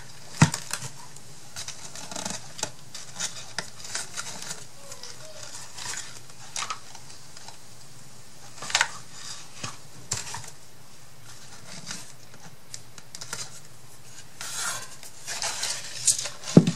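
Scattered light clicks and taps from handling crafting materials and tools on a work table while gluing twine, with a sharp knock about half a second in and a louder one near the end, and some rustling just before it.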